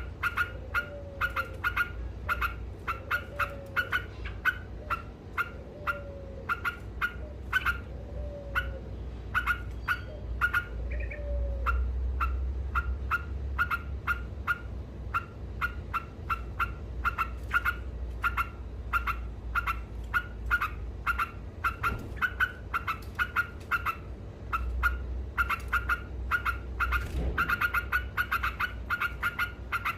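Yellow-vented bulbul (trucuk) calling in a long run of rapid, repeated chattering notes, about three a second. A lower falling note repeats every second or so in the first third, over a steady low rumble.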